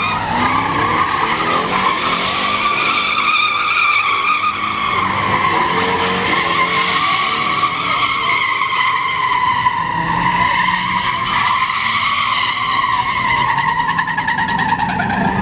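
Pickup truck spinning its rear tyres: a long, continuous tyre squeal that wavers slightly in pitch, with the engine revving underneath.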